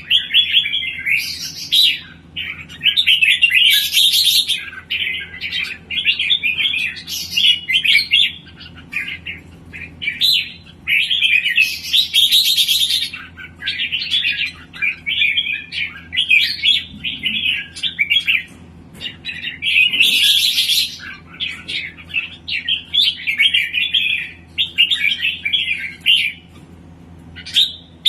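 A songbird singing in long, busy chattering phrases broken by short pauses, with a few brighter, shriller bursts. The bird is in full singing form.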